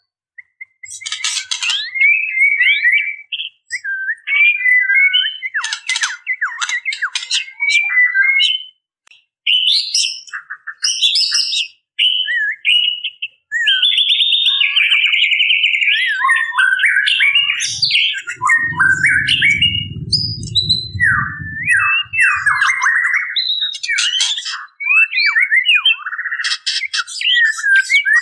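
Female white-rumped shama calling in breeding condition: bursts of harsh, rapid rattling chatter (the 'ketrekan') mixed with short whistled and squawking notes, broken by brief pauses. A low rumble runs under the calls for a few seconds about two-thirds of the way through.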